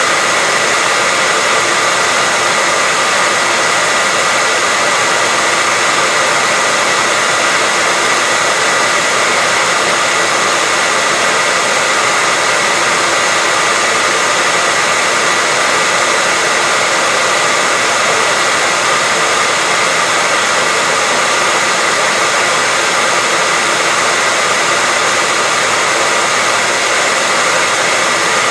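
Hair dryer running steadily, a constant rushing blow of air with a faint high whine from its motor, with no change in speed.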